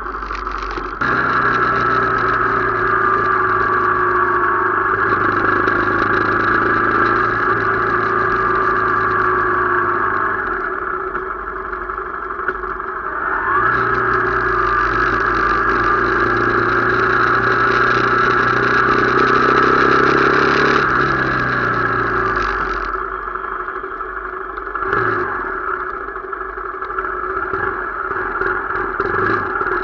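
A motor vehicle's engine running under load, with a steady engine note and a rushing noise. It picks up sharply about a second in, swells again about thirteen seconds in with a rising pitch, and drops back after about twenty-two seconds.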